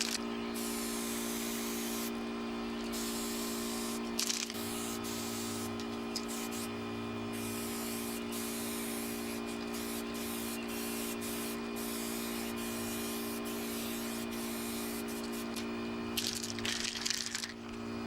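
Aerosol spray can hissing in repeated bursts, with short pauses between them and a louder stretch of spraying near the end. A steady background music drone runs underneath.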